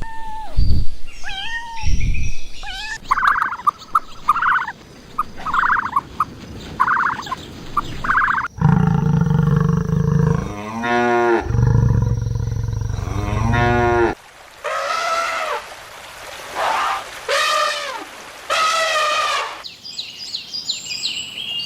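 A run of different farm animal calls, one after another. A long low moo from a cow falls in the middle, between several short repeated calls earlier and four drawn-out calls later.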